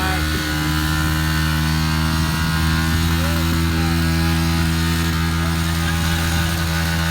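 A motor vehicle engine running at a steady, unchanging pitch, during a motorcycle-versus-tractor pulling contest.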